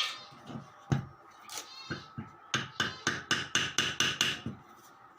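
Hammer blows, typical of knocking a 6202 ball bearing off or onto a washing machine motor shaft. Two single strikes, then from about halfway a quick, even run of about four blows a second.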